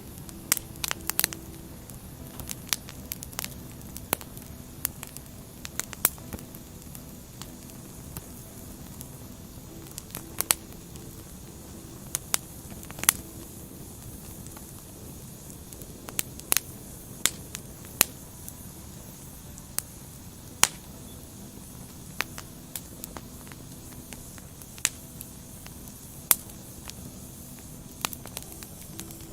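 Wood fire burning: a steady hiss with irregular sharp crackles and pops from the burning logs, some much louder than the rest.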